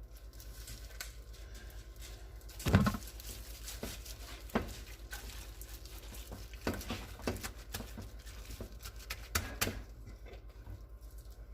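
Gloved hands working the seasoning into a raw chuck roast in its pan: scattered soft pats and clicks, with one louder knock about three seconds in, over a steady low hum.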